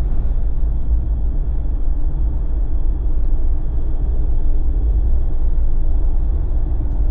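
Steady low rumble of road, tyre and engine noise inside the cabin of a moving Jeep.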